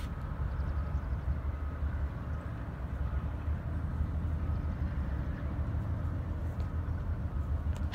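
BNSF freight train cars rolling past, a steady low rumble.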